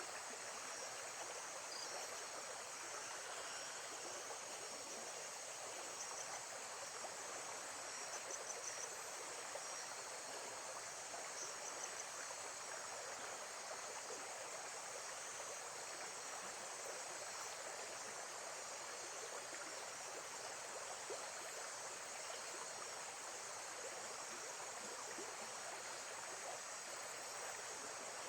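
Steady rush of running water, with faint high insect chirps now and then.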